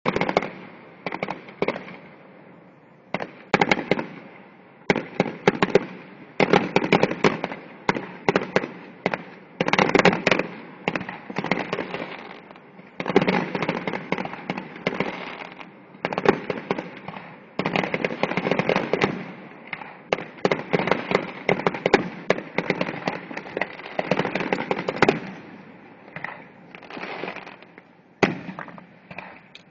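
Fireworks display finale: dense barrages of sharp bangs and rapid crackling from aerial shells, one cluster after another, thinning out a little near the end.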